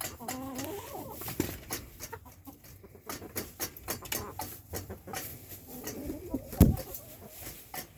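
Backyard hens clucking softly, with rustling and light clicks of movement, and one thump about two-thirds of the way through.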